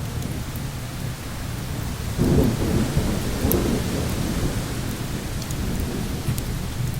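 Thunderstorm ambience: a low roll of thunder swells about two seconds in and eases off by about four seconds, over a steady low rush of wind and rain. Scattered faint crackles sound through it.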